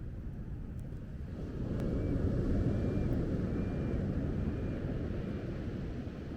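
Low rumbling wind and surf noise, swelling about a second and a half in and easing near the end.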